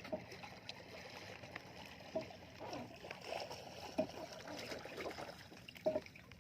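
Water sloshing and splashing around a small boat, with scattered light knocks on the hull.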